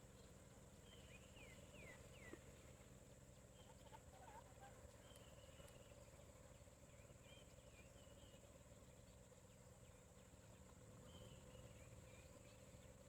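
Faint birdsong: scattered short chirps and quick downward-sliding whistles, a few about a second in and more later on, over a steady low hum and a constant high-pitched whine.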